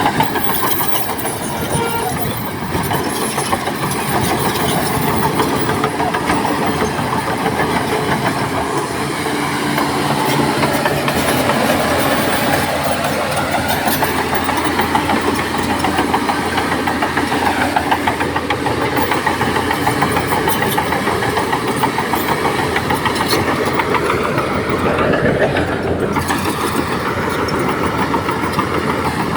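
Heavy diesel earthmoving machinery working: a bulldozer and dump truck run under load with a steady, dense engine clatter. About 24 seconds in the engine note rises, then drops away sharply a couple of seconds later.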